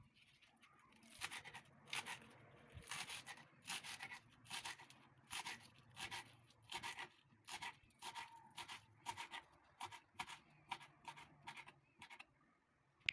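Rhythmic scraping strokes, about one and a half a second, quiet and even, stopping about a second before the end.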